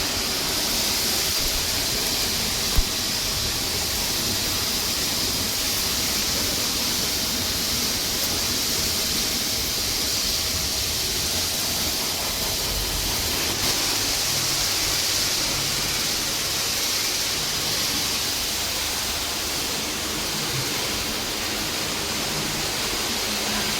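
Steady hissing noise, strongest in the upper range, with one sharp click about three seconds in.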